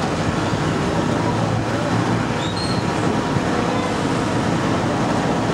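A small 70cc racing motorcycle engine running at speed through a corner, heard over a steady, dense outdoor noise. A brief high chirp comes about halfway through.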